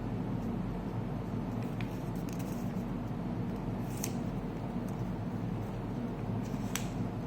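Thick paper being handled, folded and creased by hand, giving a few short crisp crackles, the clearest about four seconds in and another near the end, over a steady low hum.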